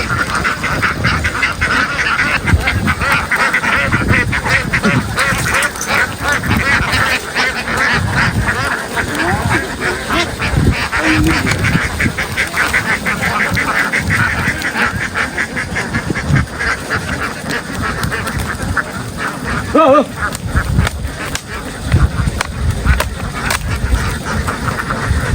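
A large flock of domestic ducks quacking continuously, many birds calling over each other at once.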